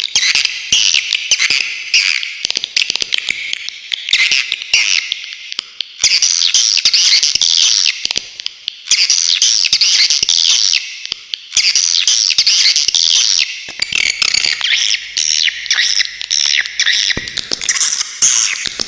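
Swiftlet calls: long runs of rapid, sharp chirping and twittering, broken by a few brief pauses.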